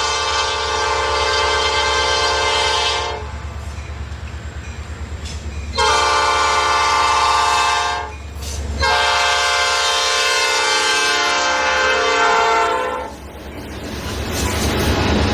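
Freight train locomotive's air horn sounding three long blasts, the middle one shorter, over the low rumble of the diesel locomotive. The chord falls slightly in pitch during the last blast.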